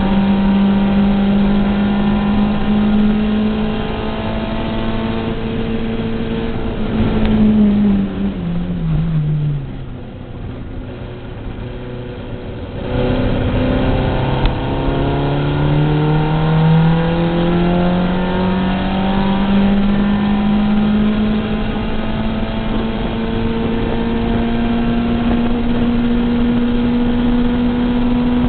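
Racing car engine heard from inside the cabin during a lap: held at high revs, then the throttle comes off about seven seconds in and the engine note falls and quietens for a corner. About thirteen seconds in the driver is back on the throttle and the revs climb steadily for several seconds, then hold high.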